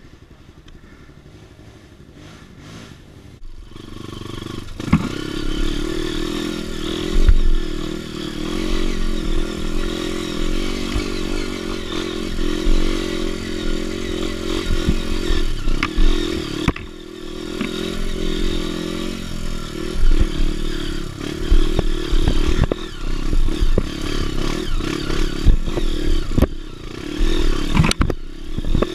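Dirt bike engine running as the bike rides a rough trail, with frequent knocks and clatter from the bike over the ground. It is fairly quiet for about the first three seconds; the engine comes in about four seconds in.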